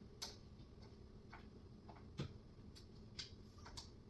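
Faint, irregular clicks and taps from handling flat-pack cabinet panels and small fittings, about seven in all, the sharpest about two seconds in, over near-quiet room tone.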